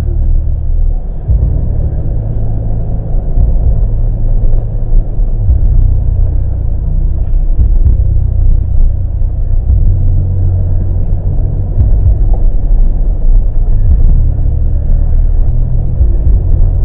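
A car on the move, its engine and road noise making a steady low rumble.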